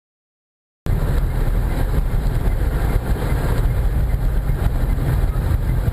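Steady road and engine noise of a moving car as heard by a dashcam, cutting in abruptly about a second in after dead silence.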